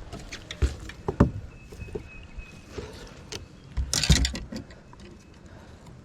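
Irregular knocks and thumps of a freshly netted fish being handled, with a louder cluster of knocks about four seconds in.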